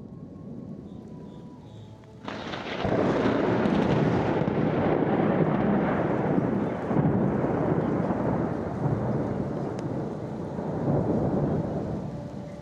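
Thunder: a sudden crack about two seconds in, followed by a long, uneven rumble that fades near the end.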